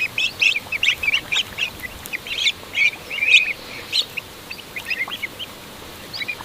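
A group of ducklings peeping: many short, high-pitched calls from several birds, overlapping at a few calls a second.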